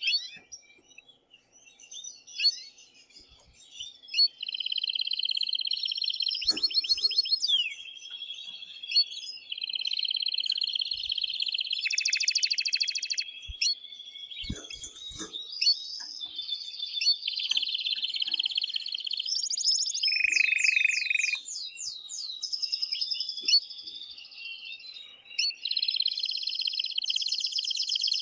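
Male domestic canary singing excitedly in a long, loud song of rapid trills and rolls, after a few seconds of scattered chirps. This is the breeding-season song that males use to stir females to mate.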